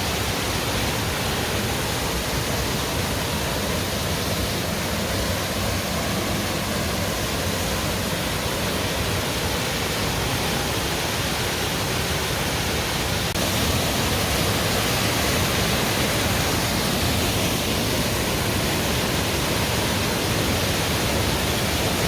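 Steady rush of flowing water from a mountain stream or waterfall, an even, unbroken noise that gets slightly louder about two-thirds of the way through.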